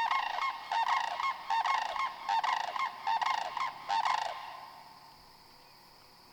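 A flock of sandhill cranes giving loud, rolling bugle calls in quick succession as they fly in to land. The calls stop about four seconds in, leaving a faint steady high chirring of insects.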